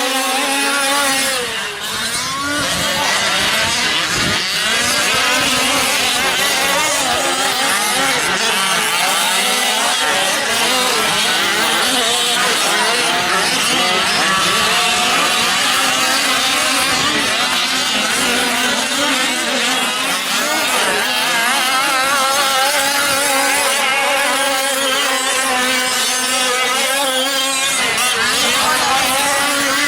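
Several 5th-scale gas RC trucks racing together, their small two-stroke engines overlapping as each revs up and falls back in pitch again and again.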